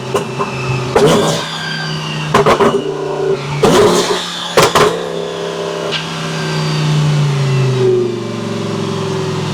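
Twin-turbo Lamborghini Huracán V10 engine running with a string of loud, sharp exhaust pops and cracks, then its note sliding lower near the end.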